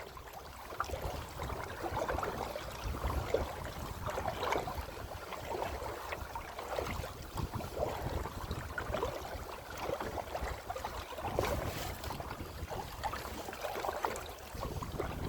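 Kayak moving through choppy lake waves: water splashing and slapping irregularly against the hull, over a steady low wind rumble on the microphone.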